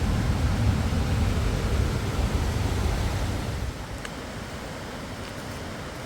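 Steady rushing noise of a fast-flowing river, with a heavy low rumble that eases a little just under four seconds in.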